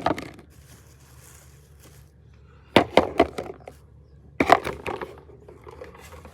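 Chicken eggs clinking against one another and a bowl as they are gathered from a nest box, in two short clusters of sharp clicks about three and four and a half seconds in.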